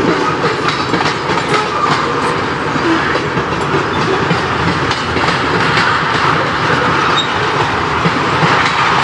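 Railroad tank cars of a freight train rolling past: a steady rumble of steel wheels on rail, with frequent clicks as the wheels cross rail joints.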